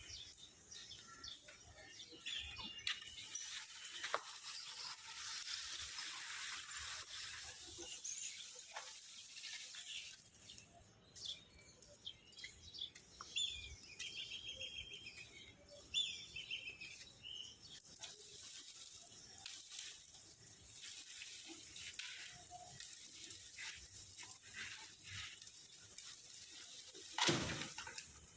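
Birds chirping over a steady high hiss of outdoor background, with a few scattered short clicks and a brief louder rush near the end.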